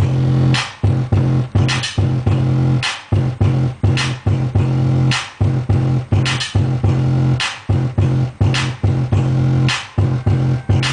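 A hip hop beat played loud through Bomber computer speakers with a small subwoofer: a heavy, steady bass line under a sharp snare or clap hit about once a second.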